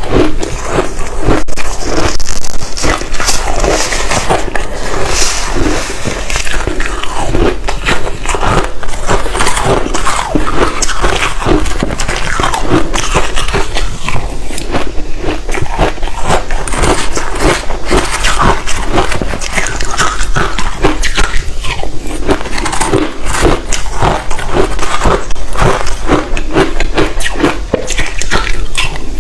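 Close-miked biting and crunching of hard ice chunks coated in matcha powder, a dense run of sharp cracks and crackles with no break.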